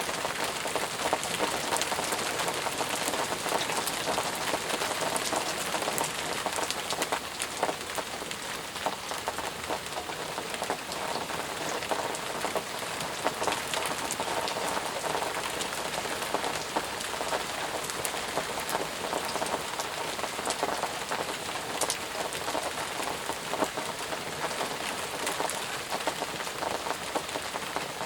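Steady, intense rain, with many single drops striking close by throughout.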